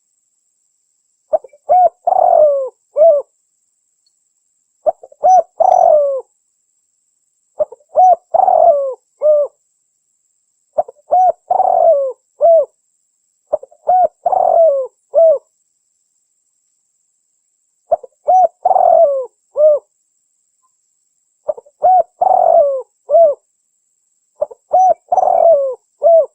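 Spotted dove (tekukur) cooing: eight phrases of three or four low coos each, repeated about every three seconds, with dead silence between phrases as in an edited call recording.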